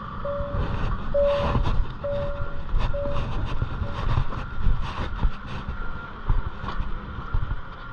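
Low vehicle engine rumble with a short beep repeating about once a second that fades out about four seconds in, and scattered sharp metallic clanks and knocks throughout.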